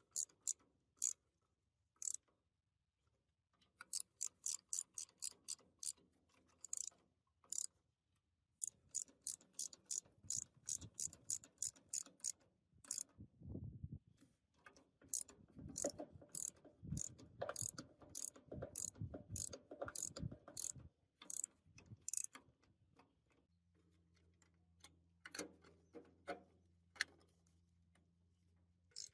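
Hand tools working on metal machine parts: runs of sharp metallic clicks, several a second at times, as of a ratchet or parts being turned, with duller knocks and scraping in the middle.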